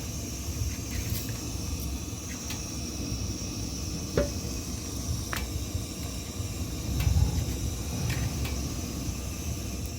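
Low rumbling noise with a faint steady hiss, broken by a few light clicks and knocks. The sharpest knock comes about four seconds in, and the rumble swells louder around seven seconds.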